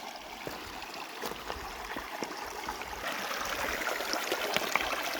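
River water rippling and running steadily, growing louder about halfway through, with scattered small clicks and knocks over it.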